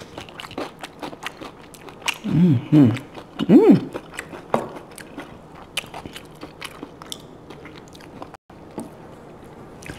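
Close-miked eating sounds: crunchy biting and chewing of salad, with small clicks of fork and mouth throughout. A few short pitched hums, rising and falling, about two to four seconds in are the loudest part.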